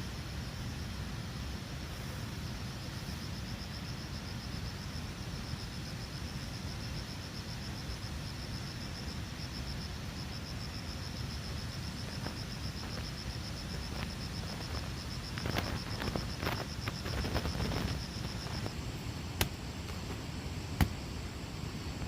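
An insect trilling, a steady fast-pulsing high buzz that stops about three quarters of the way through, over a low rumbling background. A few rustles and two sharp clicks come near the end.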